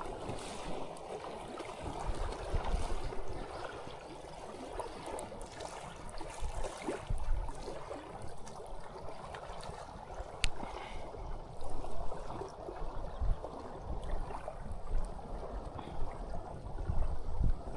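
River or stream water flowing steadily, with irregular low bumps now and then.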